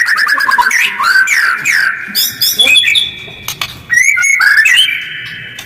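White-rumped shama (murai batu) singing: a fast trill of repeated notes that drops in pitch over the first half-second, then varied whistled phrases with gliding notes and a few held whistles, fading near the end.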